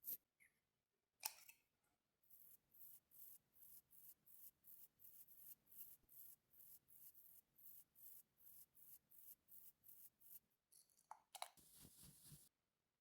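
Faint, rhythmic scratchy strokes of a makeup applicator worked against the skin, roughly three a second. A sharp click comes about a second in, and a louder handling rustle near the end.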